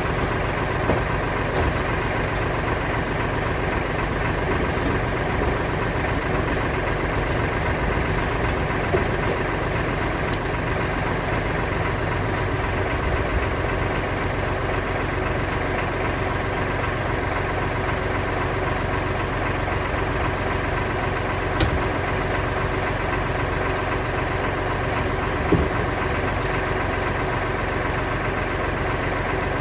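Kioti DK65 tractor's diesel engine running steadily at idle, with a few short, sharp knocks now and then.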